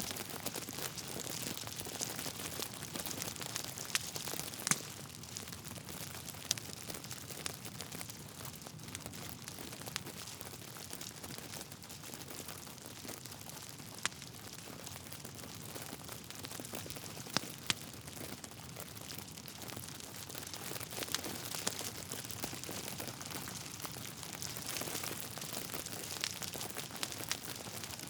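Wood fire in a fireplace crackling steadily over a soft hiss, with irregular sharp pops from the burning logs.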